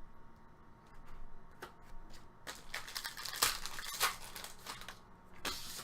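Trading cards rustling and sliding against each other as they are handled by hand, in several short spells, busiest in the middle.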